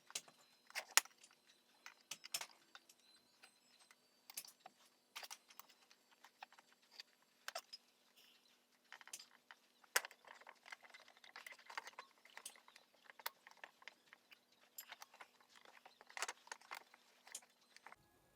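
Irregular light clicks and metallic taps from small tools and brake parts being handled and set down, with a faint steady hum underneath that stops just before the end.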